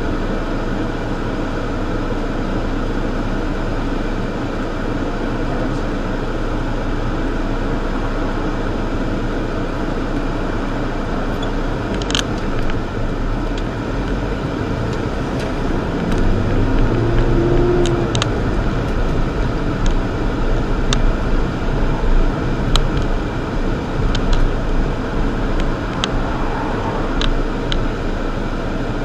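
Steady road traffic noise at a street intersection. About halfway through, a vehicle's engine comes in louder for a while, and there are several short sharp clicks.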